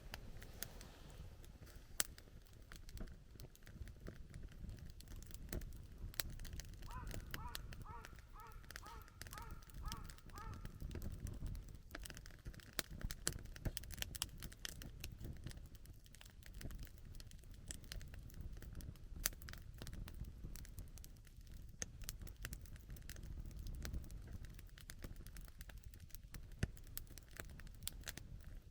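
Wood campfire crackling and popping irregularly over a low, steady rumble. From about seven seconds in, a bird calls repeatedly, roughly twice a second, for about four seconds.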